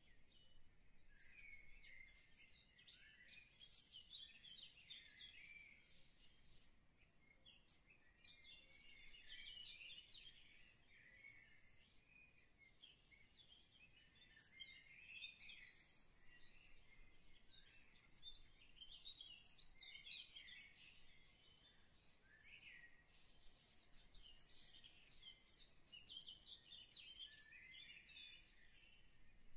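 Faint chirping of small birds: many short, high calls one after another.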